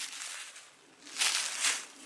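Footsteps crunching through dry leaves: one crunching step comes about a second in, after a brief lull.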